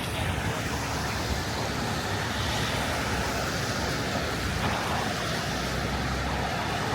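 Steady city street noise: traffic and wind mixed into an even rush.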